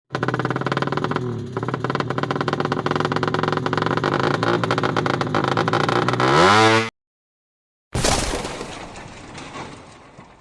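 Motorcycle engine running at a steady pitch, then revving up with a rising whine and cutting off abruptly. After a second of silence a loud crash rings and fades out.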